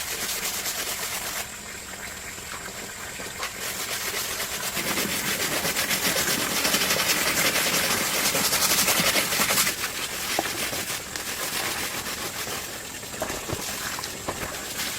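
Rain falling steadily, a dense hiss of drops that grows heavier in the middle and eases off about two-thirds of the way through.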